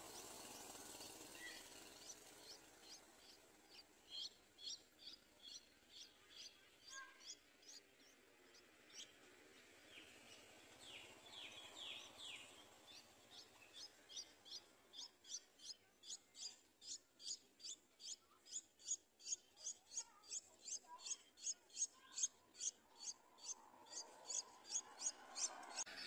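Streak-eared bulbul nestling giving begging calls while being fed: a fast run of short, thin, high chirps. They are uneven at first, then settle to about three a second and grow louder in the second half.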